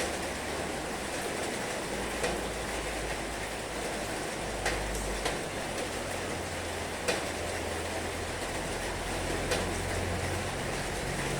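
Heavy rain falling steadily over a low rumble, with a handful of sharp, louder drops tapping on a surface.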